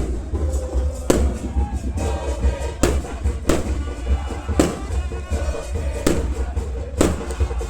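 Music driven by loud, heavy drum strikes coming about once every second, with pitched notes between them. A steady low rumble runs underneath.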